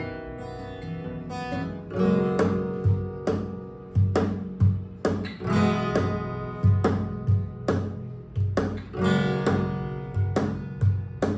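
Acoustic guitar played solo, chords strummed and notes plucked, each stroke ringing out and fading. It starts softly, with firmer strums from about two seconds in.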